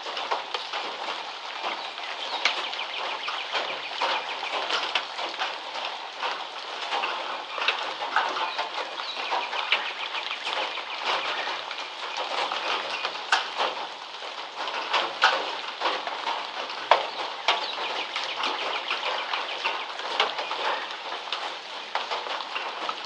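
Rain falling on a tin roof, many irregular drop strikes over a steady hiss, with songbirds chirping throughout.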